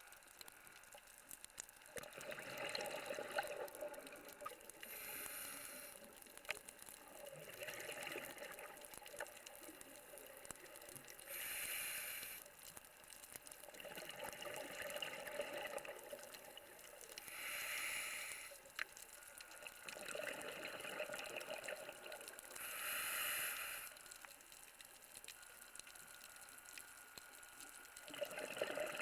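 Scuba diver breathing underwater through a regulator in a slow, steady rhythm: an inhaled hiss, then a short rush of exhaled bubbles, four times, about every six seconds.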